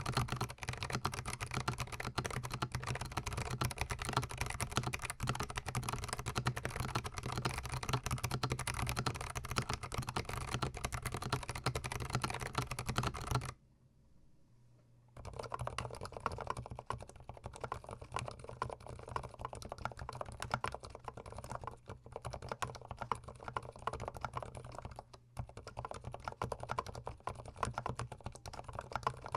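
Rapid, continuous typing on a GMMK Pro gasket-mount mechanical keyboard, recorded with the microphone very close to the keys. The keystrokes stop for about a second and a half midway, then resume sounding duller.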